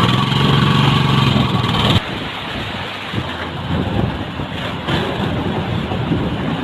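Motorcycle engine running steadily while riding, with wind rushing over the microphone. About two seconds in the engine note drops away abruptly, leaving rough wind and road noise.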